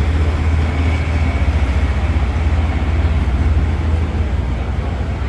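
A heavy engine running with a deep, steady rumble, easing slightly about four seconds in.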